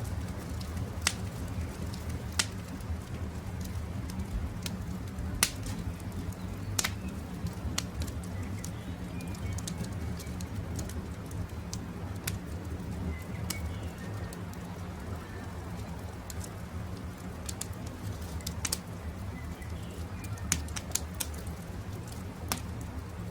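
Wood fire crackling with sharp, irregular pops over a low steady rumble, with faint bird calls now and then.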